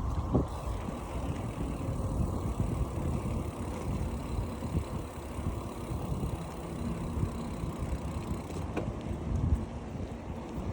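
Wind rushing and buffeting over a microphone on a moving bicycle, a low, uneven rumble, with a couple of brief clicks near the start and about nine seconds in.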